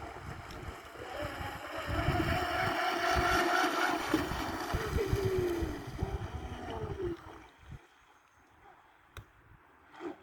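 Electric motors of a radio-controlled model boat whining, with the pitch dropping as the throttle comes off, against wind on the microphone. The sound fades to near quiet about seven seconds in.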